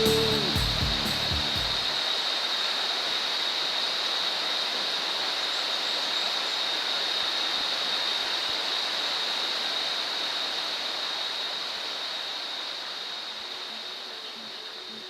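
Rushing water, like a waterfall or fast stream, as a steady even noise with a thin, steady high-pitched tone over it, slowly fading toward the end. Music ends about two seconds in.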